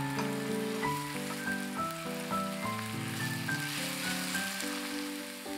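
Background music with a simple melody of held notes, over the sizzle of instant noodles and green chilies stir-frying in a pan; the sizzle grows about four seconds in as the noodles are tossed.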